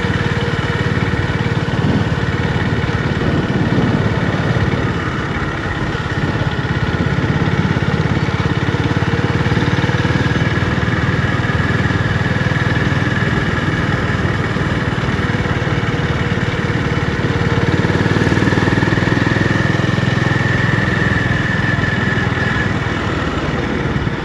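Honda GB350's air-cooled single-cylinder engine running steadily, dipping slightly about five seconds in and swelling a little near the end.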